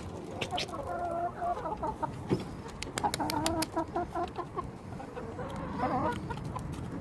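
Hens clucking in short repeated calls, with a few sharp clicks among them.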